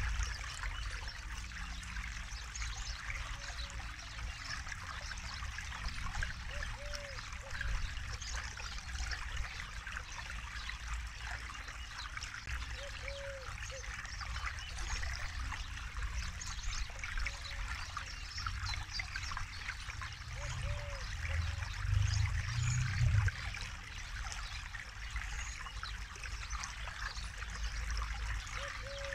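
River water flowing and trickling over stones, steady throughout. A bird gives a short, low, arched call about every six seconds, and a brief louder low rumble rises about three-quarters of the way through.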